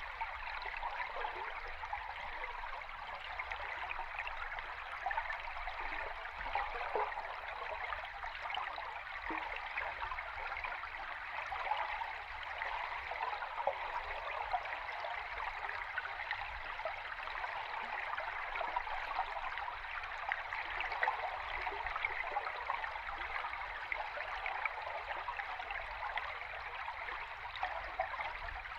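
Flowing river water heard underwater: a steady, even rushing with fine, rapid bubbling throughout.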